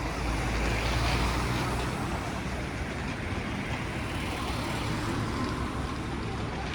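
Airbus A321 cabin noise while taxiing after landing: a steady deep rumble with a rush of air over it, a little louder for the first couple of seconds.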